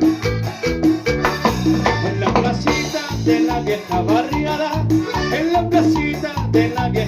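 Live band rehearsing a Latin dance song, heard with its room sound: a steady bass beat and percussion under a melodic lead.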